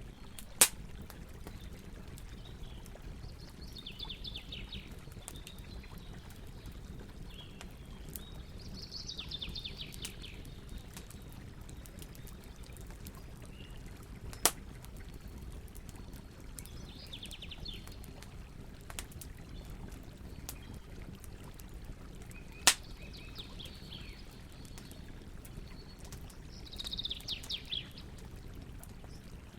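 Campfire burning with a steady low rush and three sharp pops from the wood. A bird calls several times behind it in short, rapid trills.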